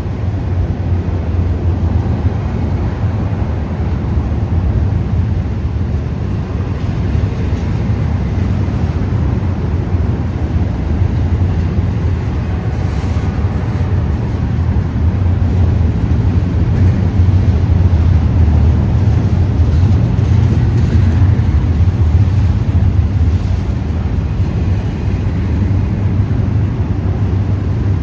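Freight train rolling past: a steady low rumble of cars on the rails, swelling a little midway.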